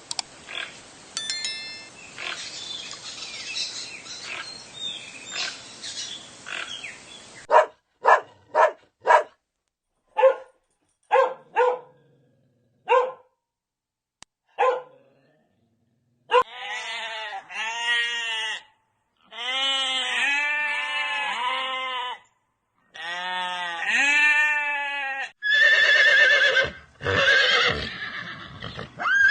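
A run of different animal calls, one clip after another: a noisy stretch first, then a series of short, sharp calls, then longer rising-and-falling calls repeated quickly in groups, and loud, high calls near the end.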